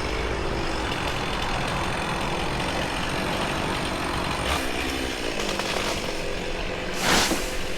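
Chainsaw running steadily, with a brief louder burst of noise about seven seconds in.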